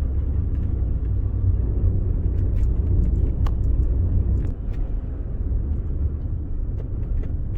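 Ford Expedition SUV driving on a snowy road: a steady low rumble of engine and tyres, easing slightly about halfway through, with a few faint clicks.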